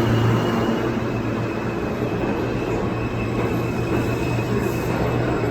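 Steady hum and rumble of a New York City subway train, with a faint high whine held throughout.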